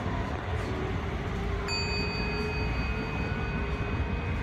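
Inside a train carriage: the steady low rumble of the running train, with a faint drifting whine. About two seconds in, a steady high-pitched tone starts and holds.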